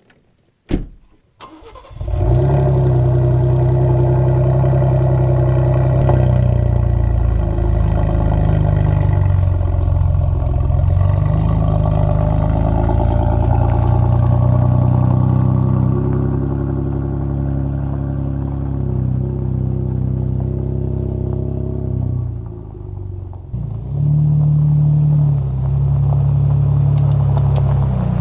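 A Ford Bronco's door slams shut, then about two seconds in its engine starts and runs steadily as the truck pulls away towing a small camper trailer.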